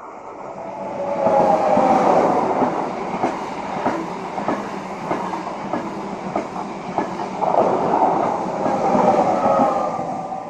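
A Renfe train passing close by, its wheels clicking rhythmically over the rail joints. The sound swells in over the first second or so and eases off near the end as the train goes past.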